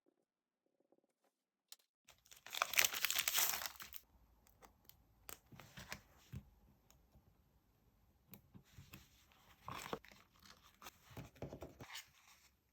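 Paper being torn or peeled, loud for about two seconds after a short silence, followed by scattered light taps and rustles of paper being handled.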